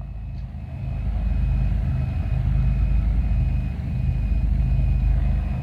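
Cessna 310's twin piston engines running at low power on the ground, a steady low hum that grows a little louder over the first second or two.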